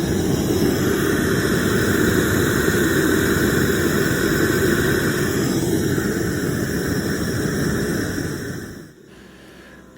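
Homemade forge fired by an old Herman Nelson torch burner, running with a steady rushing noise; it cuts off near the end.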